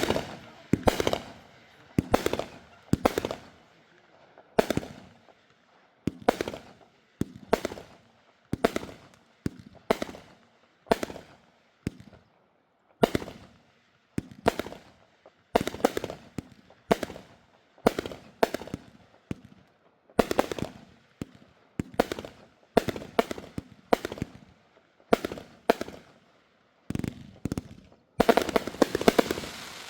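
Backyard consumer fireworks going off in a long series of sharp bangs, roughly one a second, each dying away quickly. Near the end a dense flurry of bangs follows in quick succession.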